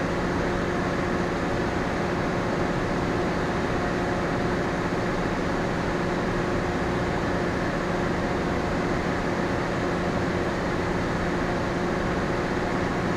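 Steady hum of a moored ship's onboard machinery and ventilation heard inside the passenger spaces: an even rush with a few constant low tones, unchanging throughout.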